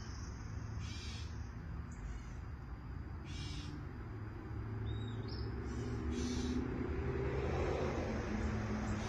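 A wild bird repeating a short, harsh call three times, every two to three seconds, with a brief falling note between. Under it runs a low vehicle rumble that grows louder in the second half.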